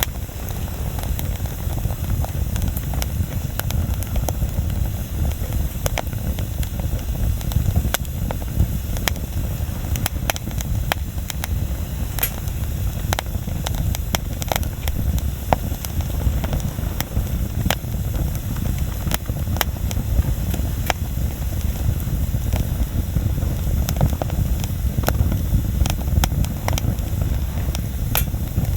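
Wood bonfire burning, with irregular sharp crackles and pops from the burning wood over a steady low rumble.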